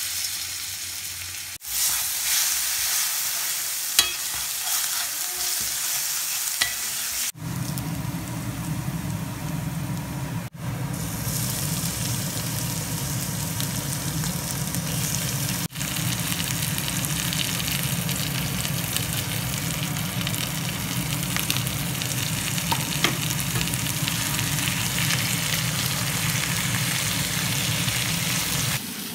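Minced garlic sizzling in hot oil in a cast-iron skillet, then minced chicken frying as it is stirred with a metal spatula; a steady hiss with a few sharp clicks of the utensils on the pan, briefly broken by edits.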